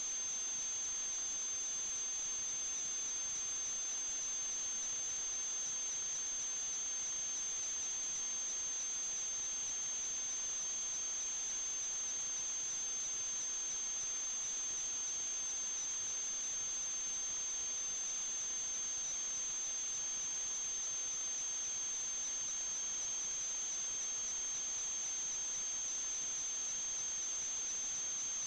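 A steady high-pitched electronic whine, with a fainter lower tone beneath it, over a constant hiss.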